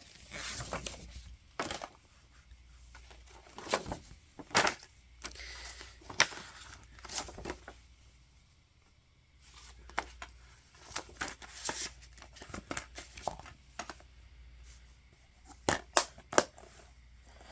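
Handling a plastic DVD case and its paper parent's guide insert: scattered clicks and snaps of the case with short stretches of paper rustling, and two louder sharp clicks near the end.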